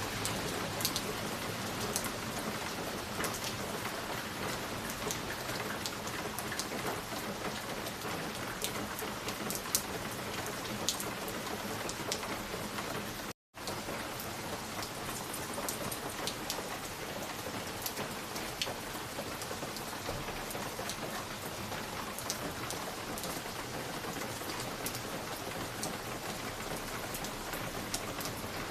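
Wood fire crackling in a fireplace: a steady hiss with many scattered sharp pops and snaps. The sound cuts out for a moment about halfway through.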